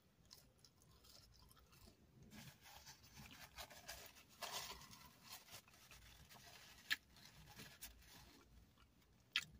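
Faint close-up chewing of a bite of double-patty cheeseburger, soft irregular crunching and mouth sounds with a couple of sharp clicks.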